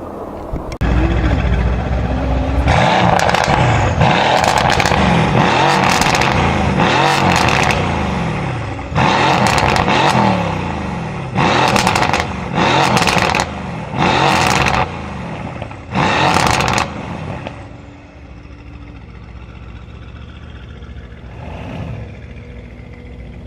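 Straight-piped Mercedes-AMG C63 S coupe V8 revved hard in the stationary car: several seconds of sustained, rising and falling revs, then five short sharp blips of the throttle. Near the end it drops back to a steady, quieter idle.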